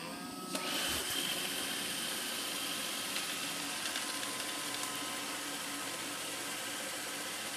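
Roomba 650 robot vacuum's motors spinning up with a rising whine, then running with a steady whir as the robot drives itself back to its charging dock.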